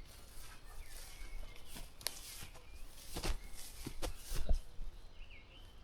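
Footsteps on the woodland floor, with several sharp cracks and crackles underfoot, while birds chirp faintly in the background.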